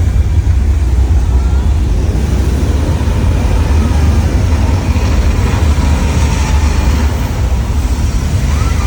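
Loud, continuous deep rumble of the simulated earthquake in a studio-tour special-effects show.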